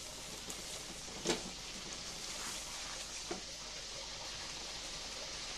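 Spice paste with yogurt sizzling in oil in an aluminium pan as a silicone spatula stirs it. The spatula gives a sharp knock against the pan about a second in and a lighter one a little past the middle.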